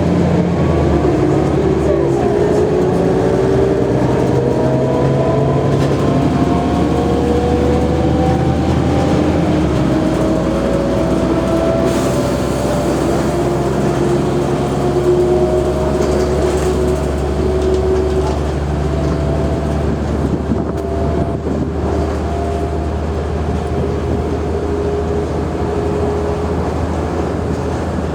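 Mercedes-Benz O345G articulated bus driving under power: a steady low engine rumble with a whine from the drivetrain that climbs slowly in pitch as the bus picks up speed.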